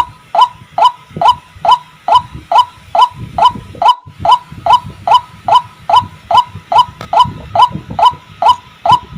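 White-breasted waterhen (ruak-ruak) calling: a steady, evenly spaced run of short, rising notes, a little over two a second, the call used to lure the birds in.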